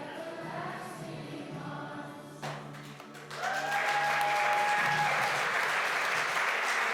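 A group of voices singing with a music track finishes a song about three seconds in. An audience then breaks into loud applause and cheering, with one long held whoop.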